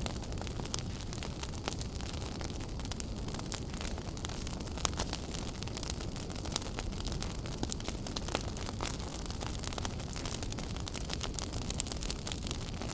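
Wood fire in a fireplace burning, with frequent small crackles and pops over a steady low rush of flame; a sharper pop comes about five seconds in and another near the end.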